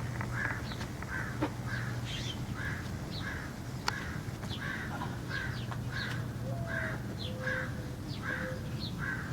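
A bird giving harsh, rasping calls, repeated evenly about twice a second, with short high chirps over a steady low hum.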